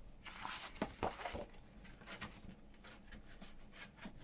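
Sheets of paper being handled and slid into a folded stack of pages. There is a rustling sweep for about the first second with a few light taps, then fainter rustles.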